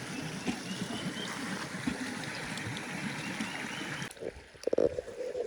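Stream water running steadily. It cuts off abruptly about four seconds in, followed by a few short knocks and a brief low pitched sound.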